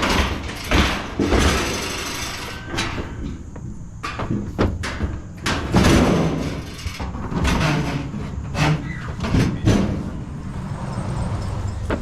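Scrap metal being thrown into a pickup truck bed: a string of irregular metal clangs and bangs, some ringing on, with rattling between them.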